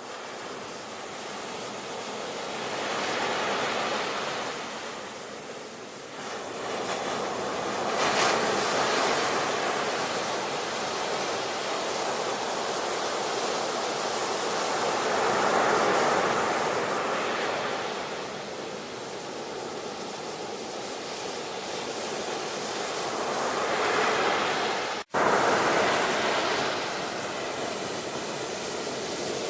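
Ocean surf: waves breaking and washing in, the rush swelling and easing every several seconds. About 25 seconds in, the sound cuts out for an instant and comes back at once.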